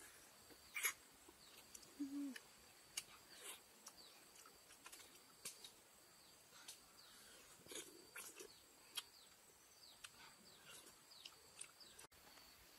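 Faint bird chirps, many of them quick downward sweeps, with scattered clicks and one brief low squeak about two seconds in, over a thin steady high tone.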